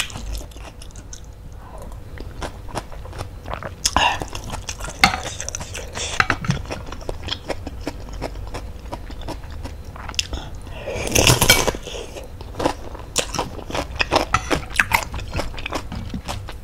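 Close-up eating sounds: wet chewing and biting of bakso and fried wontons in spicy soup, full of quick mouth clicks, with a spoon touching the bowl now and then. About eleven seconds in comes a longer, louder slurp.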